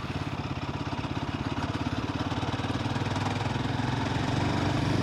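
Royal Enfield Himalayan 450's single-cylinder engine running at low revs with an even, rapid pulse, getting a little louder toward the end.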